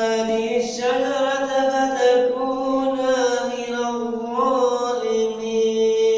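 A male reciter chanting the Quran in melodic tajweed style, drawing out long ornamented notes on elongated vowels with slow bends in pitch.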